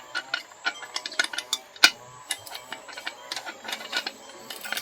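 Irregular light clicks and taps of small hard objects knocking together, with one sharper click a little under two seconds in.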